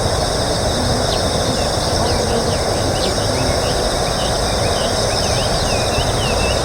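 Outdoor ambience: a steady low rumble, a constant high insect drone, and many short chirps from small birds scattered throughout.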